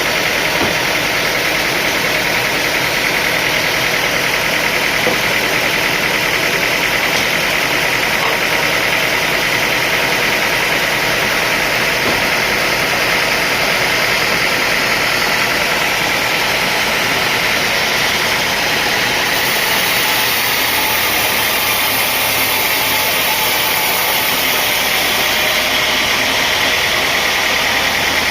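Sawmill machinery running steadily, a loud, even mechanical din, with an added high hiss from about two-thirds of the way in that stops again near the end.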